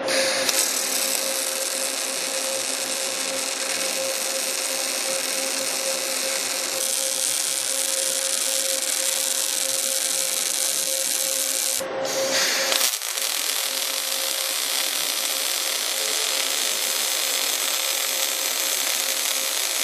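Robotic MAG welding arc burning steadily: a continuous hiss with a steady tone under it. It breaks off briefly about twelve seconds in and then resumes.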